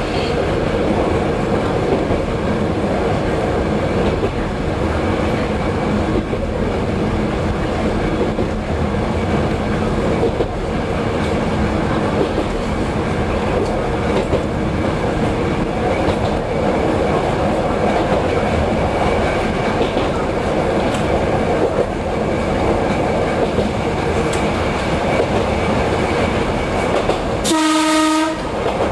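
Diesel railcar running along the track: a steady engine drone with the click of the wheels over rail joints. Near the end comes a short horn blast, about a second long.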